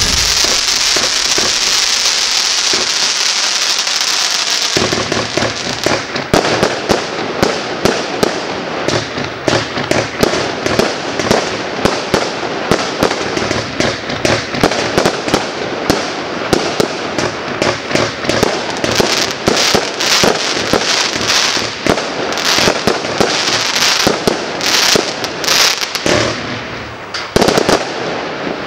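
Klasek Pyrotechnics 'Air Show' firework going off: a steady loud hiss for about the first five seconds, then dense, rapid crackling and popping. A few louder bangs come near the end.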